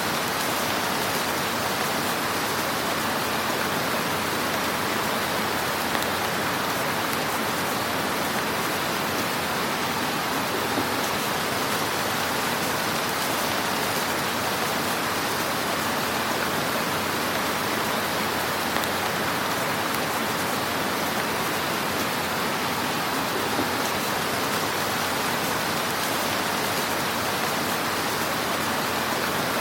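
Fire burning in a fireplace: a steady hiss with a few soft crackling pops.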